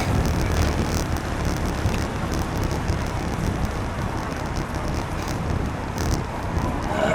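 Wind rumbling on the microphone of a camera riding along on a moving bicycle, over a steady hiss of road and traffic noise, with scattered faint ticks.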